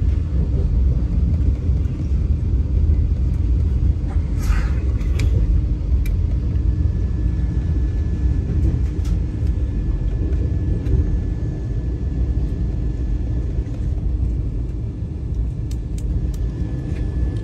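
Vande Bharat Express electric trainset running along the track: a steady low rumble with a faint steady high whine. A brief rustle about four and a half seconds in.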